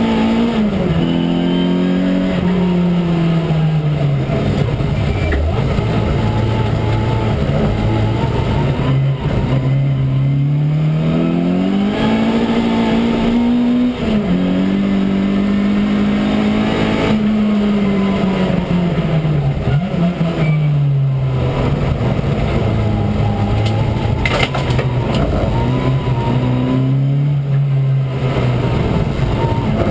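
Citroën Saxo VTS rally car's 1.6-litre four-cylinder engine heard from inside the cabin under hard driving. The engine note climbs under acceleration and falls away when the car slows for bends, with several sudden pitch drops at gear changes.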